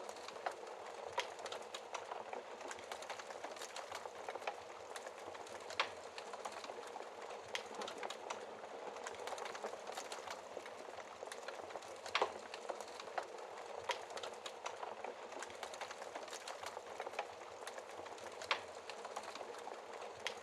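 Fire crackling in a fireplace: a steady hiss scattered with small sharp pops, and a few louder snaps about six, twelve and eighteen seconds in.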